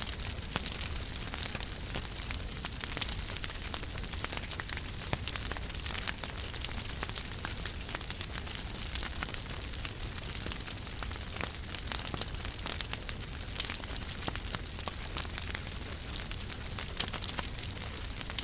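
Wood fire crackling in a fireplace: a steady hiss and low rumble of burning, with frequent small snaps and a few louder pops.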